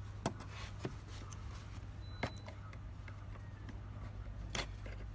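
A few faint, separate clicks from wires and push-on terminal connectors being handled, over a steady low hum.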